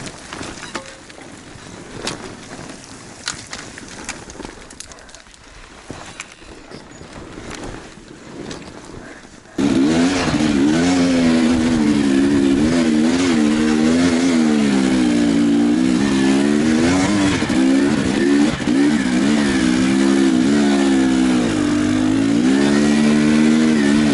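Faint outdoor sound with scattered clicks, then about ten seconds in a sudden switch to a close, loud enduro motorcycle engine revving up and down as it climbs over rough ground.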